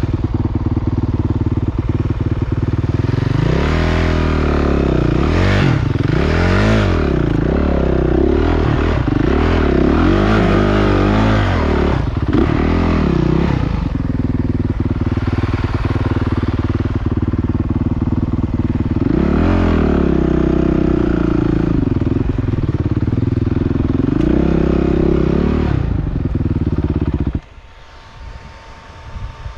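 Motocross dirt bike engines running loudly, revving up and down again and again in rising and falling waves over a steady drone. Near the end the sound drops away suddenly.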